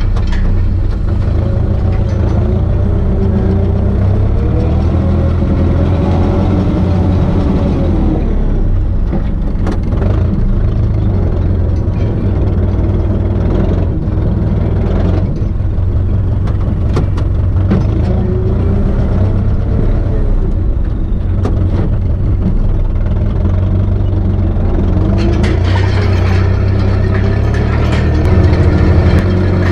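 Turbocharged four-cylinder diesel engine of an Ursus C-360 tractor running steadily under working load, its pitch wavering slightly up and down every few seconds.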